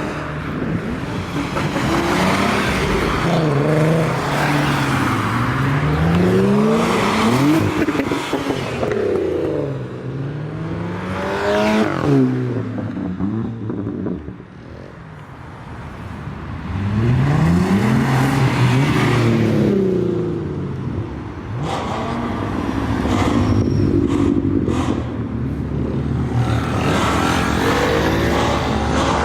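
Tuned Volkswagen-group performance cars (GTI and R models) accelerating hard and revving as they pull away, engine pitch rising through each gear and dropping at the shifts, one car after another, with a brief lull about halfway and a few short sharp cracks later on.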